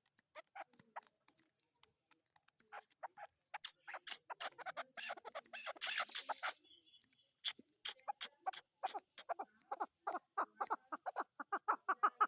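Chukar partridge calling: a series of short clucking notes, sparse at first, then coming faster and more regularly toward the end as the call builds up. A brief rustling hiss is heard about five seconds in.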